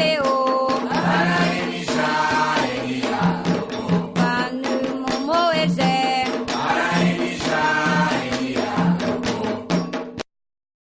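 Candomblé chant: voices singing in Yoruba over hand percussion. The sound stops abruptly about ten seconds in, at the end of a track.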